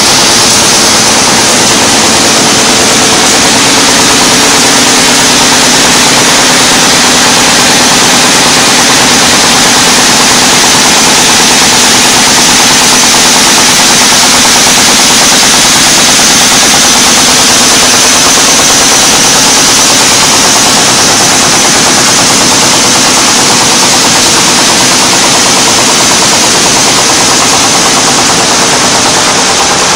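Envelope-making machine running at speed: a loud, steady, rapid mechanical clatter.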